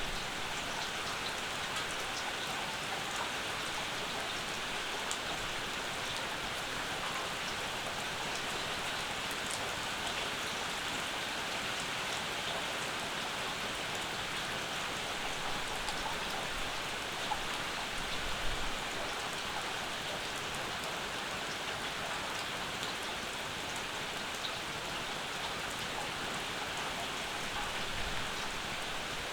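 Steady summer rain falling without a break, with scattered individual drops ticking through the steady hiss.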